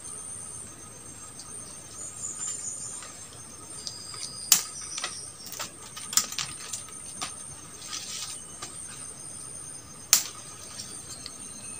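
Forest insects droning steadily at a high pitch, with a scatter of sharp clicks and snaps; the two loudest come about four and a half and ten seconds in.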